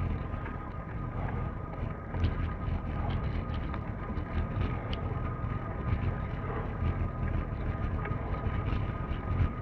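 Steady low rumble of movement with wind buffeting the microphone, scattered clicks and rattles, and a faint steady whine.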